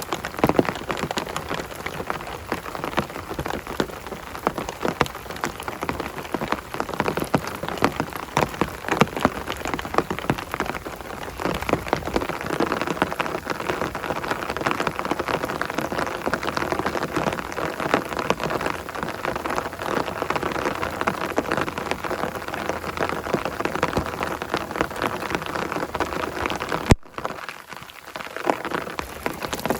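Heavy rain falling, a dense steady patter of drops. It cuts out abruptly for a moment about three seconds before the end, then resumes.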